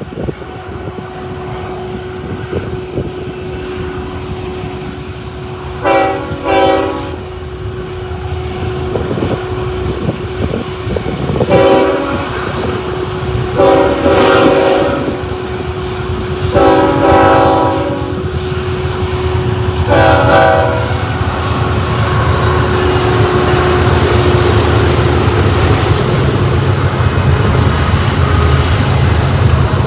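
Diesel freight locomotive air horn sounding a short pair of blasts, then four longer chord blasts. The train's low engine rumble then builds steadily as it approaches.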